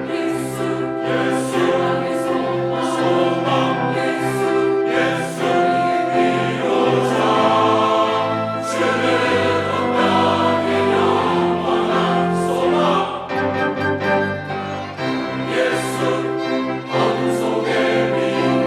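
Mixed church choir singing a sacred anthem in sustained chords, accompanied by a small orchestra of strings, flute, clarinet and horn with piano and organ.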